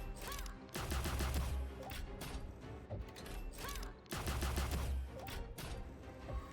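Money Train 4 online slot game audio: the bonus-round music runs with game sound effects over it, including two loud, booming stretches of rapid shot-like hits, about a second in and again about four seconds in.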